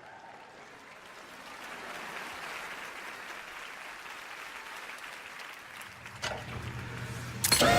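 Audience applauding, swelling over the first couple of seconds and then holding steady. Near the end a low hum comes in and loud music starts abruptly.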